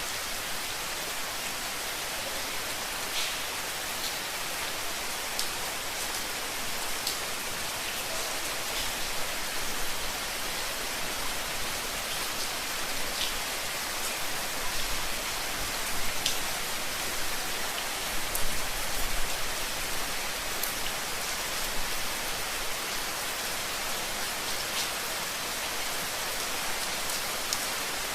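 Steady rain falling, a dense even hiss with individual drops ticking now and then. A few soft low swells come in about halfway through.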